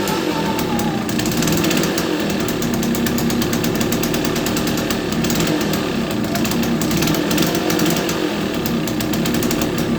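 A Bajaj M80's small two-stroke single-cylinder engine running at a steady speed, with a rapid, even putter.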